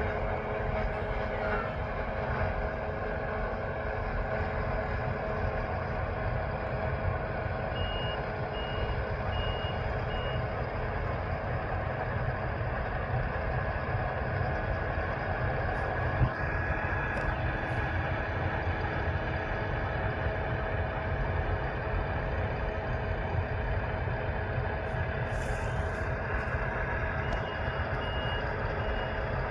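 Harvest machinery running steadily: the diesel engines and threshing gear of combine harvesters and a tractor, a loud drone with a steady whine in it. A high reversing alarm beeps in two short runs, about a third of the way in and near the end.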